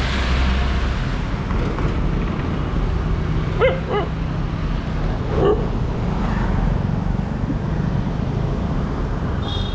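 Street dog barking: two quick barks about three and a half seconds in, then one more about two seconds later, over steady street noise.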